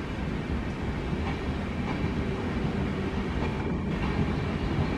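Passenger train's coaches rolling on the rails: a steady low rumble with a few faint wheel clicks.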